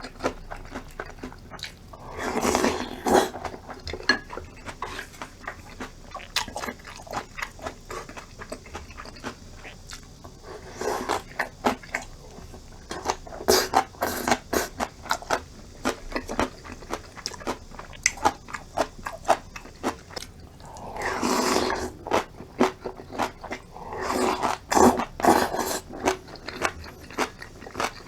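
Close-miked eating sounds: a person chewing and crunching cold acorn-jelly rice soup with garlic scapes and chili peppers, with many small clicks throughout. Louder spells of eating come around 2 s, 11 s, 21 s and 25 s in.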